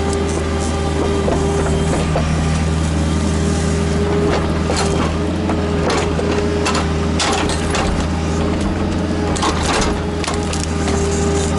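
Kubota KX121-3 mini excavator's diesel engine running steadily with a steady whine, under repeated sharp cracks and knocks, bunched around the middle and again near the end, as wood and stone are crunched and knocked about by the machine.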